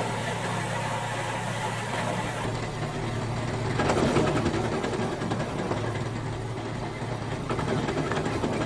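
Gas-powered wood chipper's engine running steadily, with a louder surge about four seconds in.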